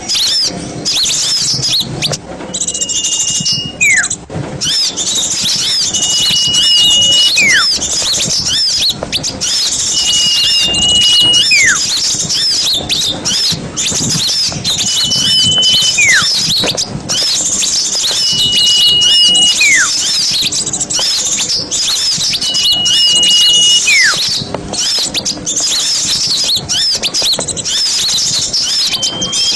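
A dense, busy chatter of many small birds. Through it, a clear whistle is held for about a second, then followed by a whistle sliding downward. This pair repeats roughly every four seconds.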